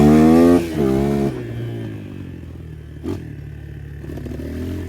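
250 motocross motorcycle engine revving high twice in the first second and a half, then dropping back to a low, steady run, with a single short knock about three seconds in.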